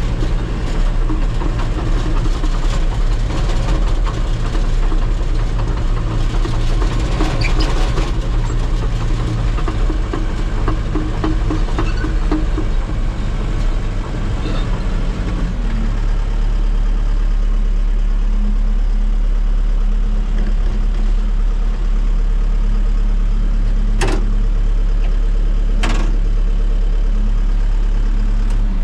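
Heavy diesel engine running while the machine is driven a short way, with rattling and clatter. About halfway through it settles into a steady idle. Two sharp clicks come near the end.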